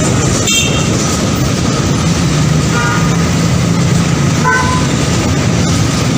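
A train running by with a loud, steady rumble, and a few short horn notes.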